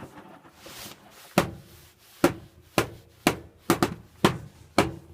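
Electrolux W455H commercial washing machine tumbling a load of wet towels during its wash: a run of sharp thuds, about two a second, starting about a second in.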